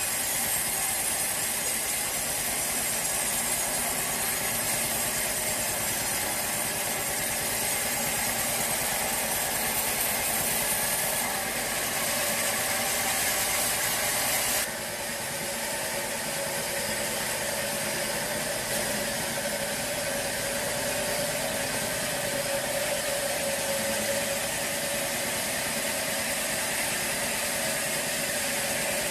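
Band sawmill running with a steady, hissing machine noise. About halfway through the sound drops suddenly and goes on a little quieter.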